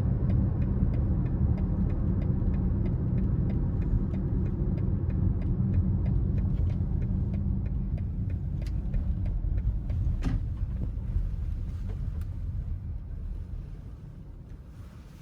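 BMW X5 30d's 3.0-litre inline-six diesel and road noise making a steady low rumble inside the cabin while driving, with a regular ticking about two to three times a second that stops about twelve seconds in. The sound fades away over the last few seconds.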